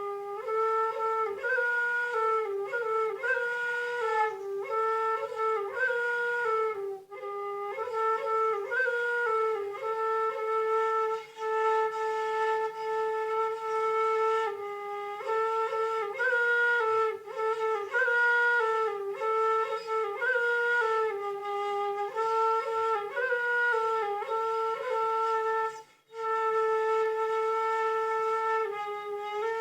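Background music: a solo flute playing a slow, single-line melody of long held notes linked by quick ornamental turns, pausing briefly twice.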